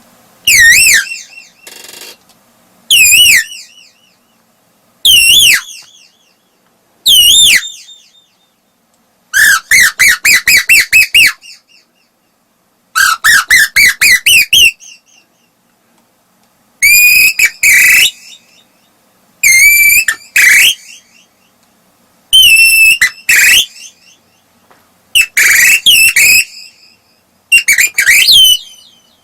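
Human mimicry of an Asian koel's call, whistled by mouth: single loud swooping notes about every two seconds, and runs of quick notes that climb in pitch.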